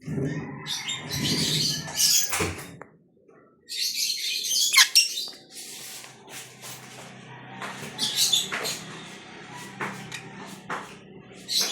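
Birds chirping and calling in short, irregular bursts, with a faint steady low hum underneath.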